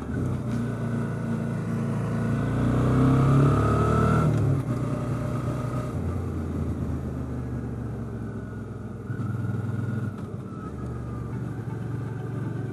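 Suzuki V-Strom 650 XT's V-twin engine running under way, its pitch climbing for a couple of seconds as it accelerates, then falling away about four and a half seconds in before settling to a steady cruise with small throttle changes.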